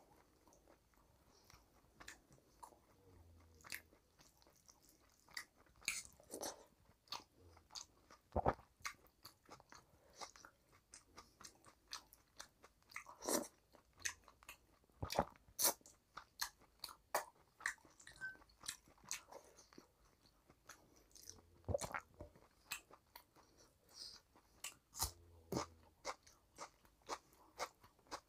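Close-miked chewing of a mouthful of rice and chicken curry eaten by hand, with irregular sharp mouth clicks and smacks.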